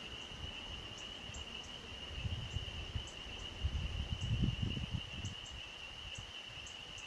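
A steady, high-pitched trilling chorus that runs unbroken, with faint higher ticks over it. Low rumbles come and go in the middle.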